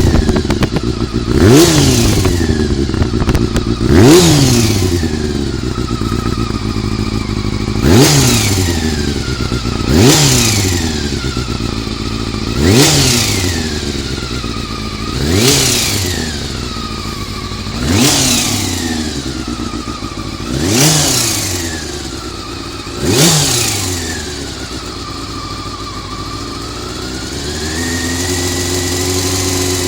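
Honda CBR400RR inline-four engine blipped nine times, each rev rising sharply and falling back toward idle, every two to three seconds, then settling into a steady idle near the end. The owner suspects an abnormal noise from the cam gear train.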